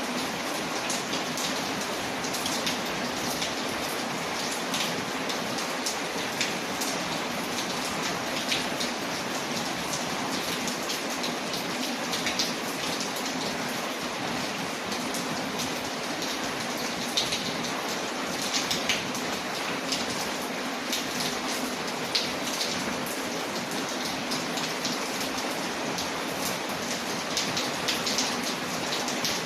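Steady rain falling on a surface, with many small sharp ticks and pops scattered through it.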